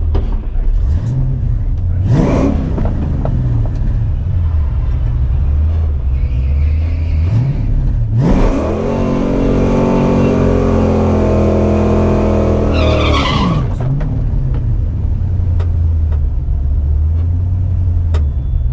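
Ford Mustang GT 5.0 V8 idling with a deep rumble, blipped once about two seconds in. About eight seconds in it is revved up, held at high rpm for about five seconds, then drops back to idle.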